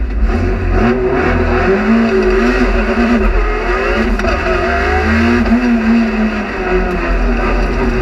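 Rally car engine heard from inside the cabin, pulling hard under acceleration, its pitch dropping and climbing again at a gear change about halfway through.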